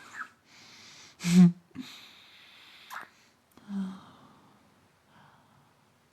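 A man's close-miked breaths and short wordless hums, with one loud breathy burst about a second and a half in and a small click near the middle.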